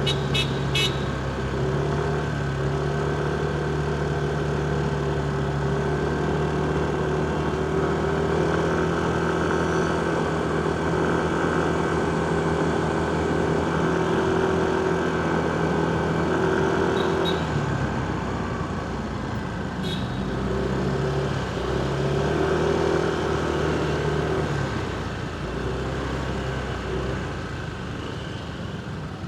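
Motorcycle engine running at a steady cruise amid city traffic, its note dropping about two-thirds of the way through and then rising and falling. A few short sharp clicks sound near the start and twice later.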